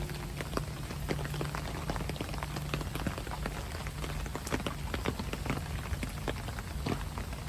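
Rain falling steadily, with many individual drops pattering and dripping close by over a low hum.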